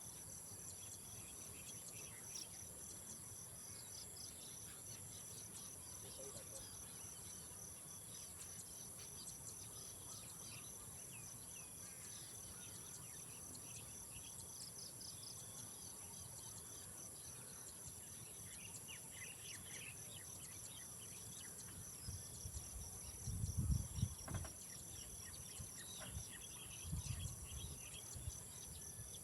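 Chorus of insects, likely crickets: a steady high-pitched trill over a lower trill pulsing several times a second, with scattered short chirps. Two brief low rumbles come near the end.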